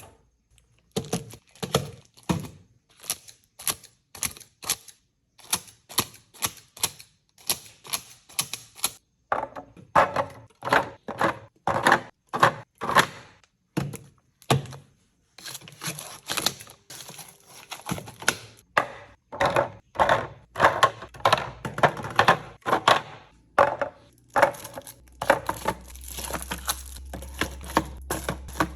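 Groceries and food containers being set down and handled while restocking a kitchen: a quick series of sharp knocks, thunks and clicks, about two a second, with short pauses. A steady low hum comes in near the end.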